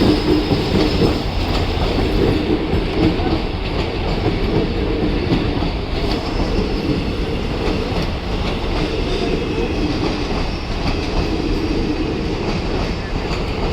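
Express passenger train rolling past at speed: a steady rumble with wheels clattering over the rails.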